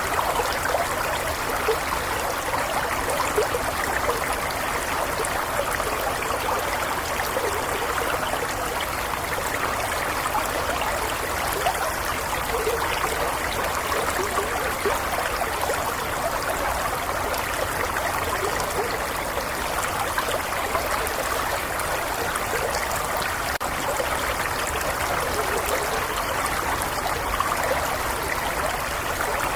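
Gentle stream of water flowing and trickling over stones, a steady babble with fine splashing detail.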